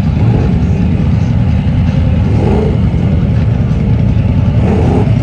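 Mud truck engines running with a loud, steady low rumble.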